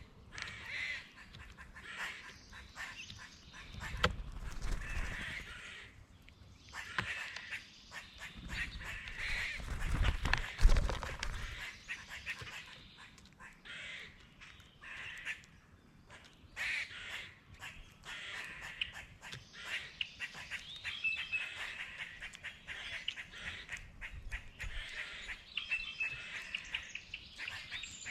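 Birds giving repeated harsh, crow-like calls, with a few low thuds about four seconds in and again around ten seconds, the loudest sound of the stretch.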